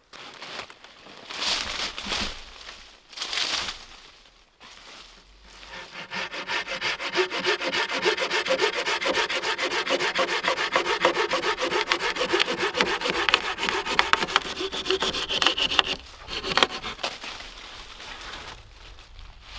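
Hand saw cutting through wood: two short strokes, then about ten seconds of steady, fast sawing that stops abruptly, with a couple of knocks after it.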